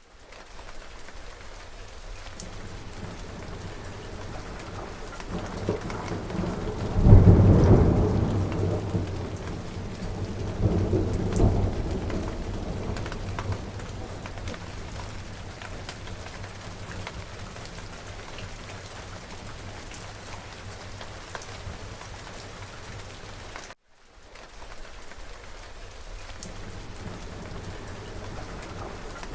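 Steady heavy rain with thunder: a loud crack about seven seconds in that rumbles on for several seconds, a second rumble around eleven seconds, and more thunder starting near the end. The sound drops out for a split second about 24 seconds in.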